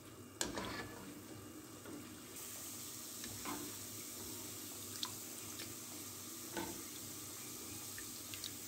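Biscuit dough pieces deep-frying in hot oil in a wok, a steady sizzle that grows louder about two seconds in. A few short clinks of a metal slotted spoon and strainer against the pan are heard over it.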